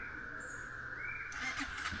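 Birds chirping over steady background noise, then, about a second and a half in, a four-stroke dirt bike being cranked to start, a quick run of clicks and clatter just before the engine catches.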